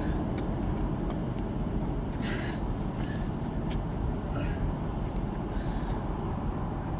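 Steady low rumble of idling truck engines, with a few light clicks and a short hiss about two seconds in.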